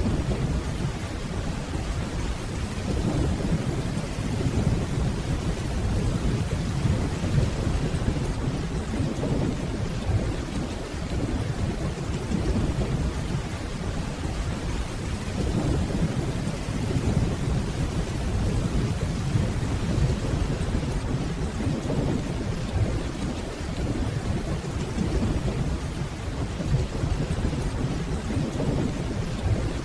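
Steady rainfall under continuous low, rolling thunder that swells and fades slowly, never as a sharp crack.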